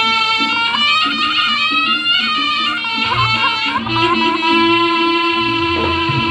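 Reog gamelan music: a slompret (reed trumpet) plays a loud, wavering, ornamented melody, and low drum strokes and a held lower tone come in about halfway through.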